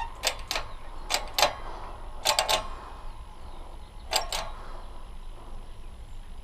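Sharp metallic taps in pairs and one quick triple, then a pause: a wheel bearing being tapped into a scooter wheel hub until it sits flush.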